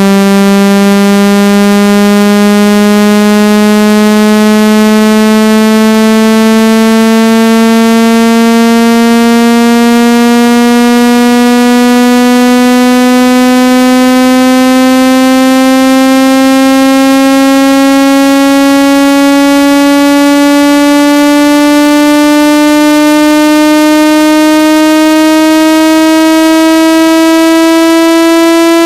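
Synthetic buzzing tone with many overtones, rising slowly and evenly in pitch. It is a speaker water-ejection sweep, played loud to vibrate trapped water out of a phone speaker or earpiece.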